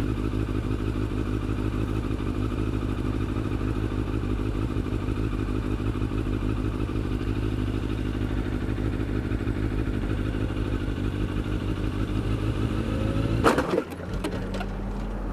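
Yamaha FZR600 inline-four motorcycle engine idling steadily, then about 13 seconds in a sudden crash and clatter as a car rear-ends the bike. After the crash the engine note drops away.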